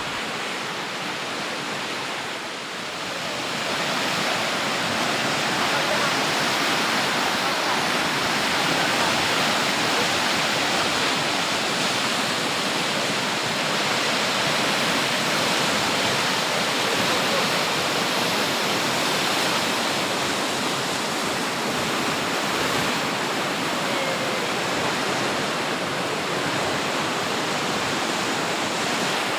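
Water pouring through the open sluice gates of a river dam, a steady heavy rush of falling water that grows a little louder about three seconds in.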